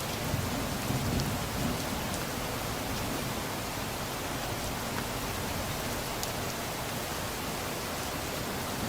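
Steady rain falling, with a low rumble of distant thunder in the first couple of seconds that fades away.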